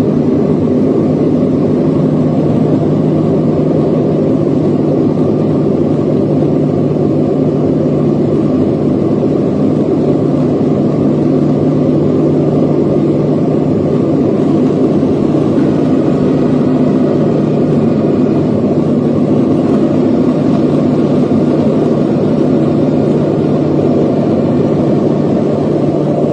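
Airplane engines running with a loud, steady low drone and a constant hum underneath, with no change in pitch or level.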